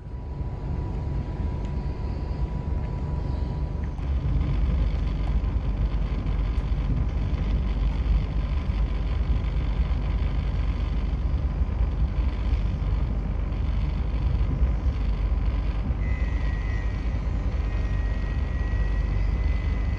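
A passenger train coach in motion: a steady low rumble of the train running. A thin high-pitched squeal joins from about sixteen seconds in.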